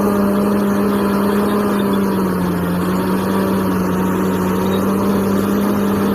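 Vehicle engine sound, a steady droning hum over a noisy rumble, whose pitch dips slightly about halfway through.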